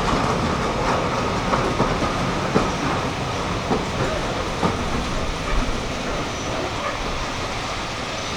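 Train running on the line, wheels clicking over the rail joints at irregular intervals, about once a second, over a steady rumble.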